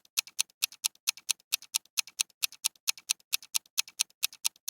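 Countdown-timer sound effect of a clock ticking quickly, about four sharp ticks a second, each with a fainter click just after it.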